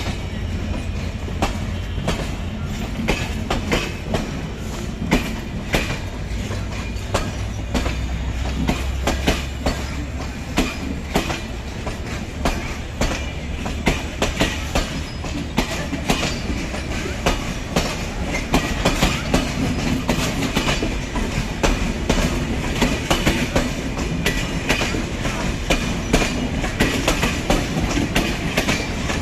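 Express train running on the rails, its wheels clattering over rail joints in a dense run of sharp clicks over a steady low rumble.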